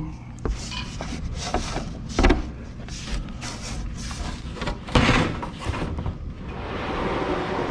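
Knocks and bumps of plywood sheet being handled around the table saw, the loudest about five seconds in, with a steadier hiss building near the end.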